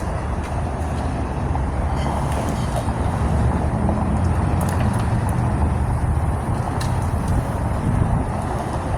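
A motor vehicle's engine running steadily, a low rumble that grows a little louder through the middle, with faint ticks now and then.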